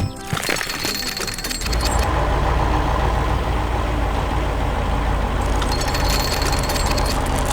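A heavy construction-machine engine sound effect running with a steady low rumble. It comes in about a second and a half in and cuts off at the end.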